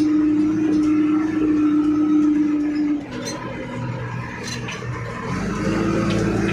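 JCB 3DX backhoe loader's diesel engine running with a steady drone. It eases off about three seconds in and picks up again near the end.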